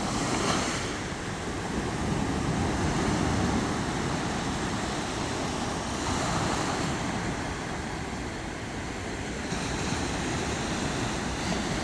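Sea waves washing onto the shore, swelling and falling back in surges several seconds apart, with wind rumbling on the microphone.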